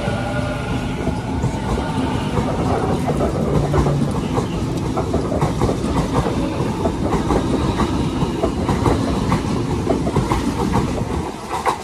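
Sydney Trains double-deck electric train running past close by: a steady rumble with rapid clicks of the wheels over the track. It fades near the end as the last carriage goes by.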